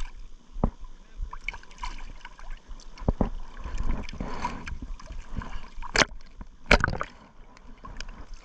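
Water sloshing and splashing irregularly, with several sharp knocks, the loudest about six and seven seconds in.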